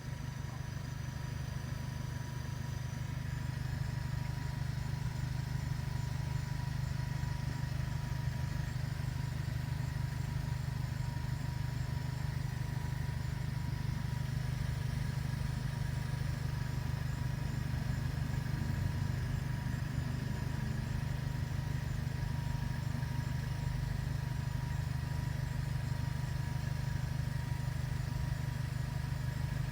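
2005 Audi A4 1.8T turbocharged four-cylinder engine idling steadily at the exhaust, a low even hum with no revving.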